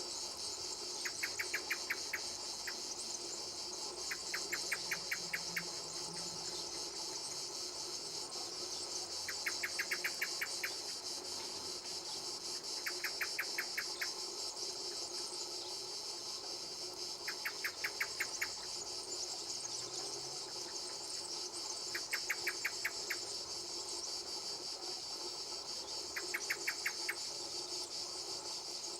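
Summer insect chorus: a steady high-pitched buzz throughout, with a short train of about ten rapid clicking pulses every few seconds, seven times in all.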